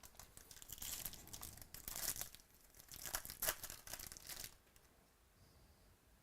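Foil trading-card pack wrapper being torn open and crinkled, in several rustling bursts that stop after about four and a half seconds.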